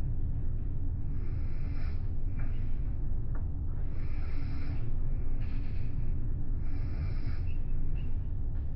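Steady low rumble of the ferry Ishikari's engines and hull under way, heard inside the cabin, with a higher hiss that swells and fades every few seconds.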